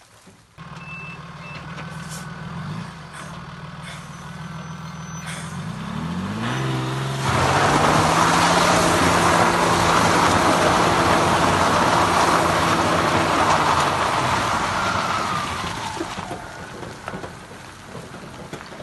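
A diesel engine starts running about half a second in, revs up around six to seven seconds, and holds high under load. From about seven seconds a loud rushing noise runs over it for some eight seconds, then fades away.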